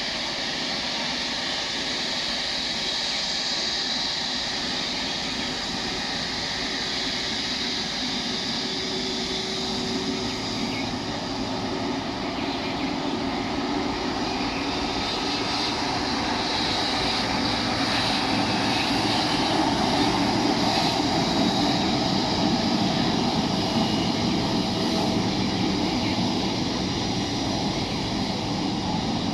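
Jet engines of a Boeing 777-300ER, its twin GE90 turbofans, running with a steady rumble and a high whine that grows gradually louder as the aircraft draws nearer.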